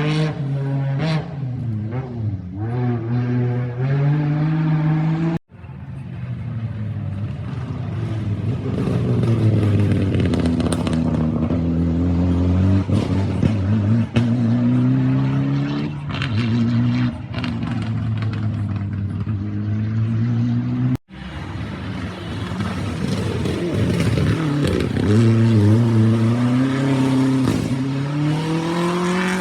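Three rally cars in turn take a tight street corner, their engines revving up and down in steps through the gear changes and accelerating away. The sound breaks off abruptly twice as one car gives way to the next.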